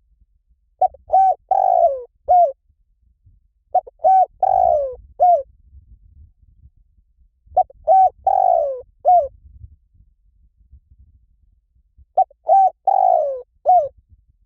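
Spotted dove cooing: four calls a few seconds apart, each a phrase of four notes in which the third note is longer and falls in pitch.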